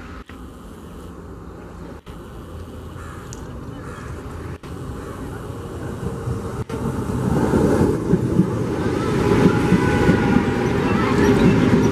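ICF-built electric multiple unit local train approaching and then passing close by. Its rumble and wheel-on-rail clatter grow steadily louder from about seven seconds in, with thin high squeals from the wheels near the end.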